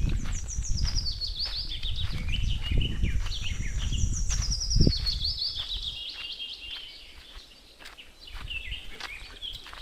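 A bird singing a quick run of high notes that falls in pitch, repeated several times, over a low rumble that fades out about six seconds in, with one knock near the five-second mark.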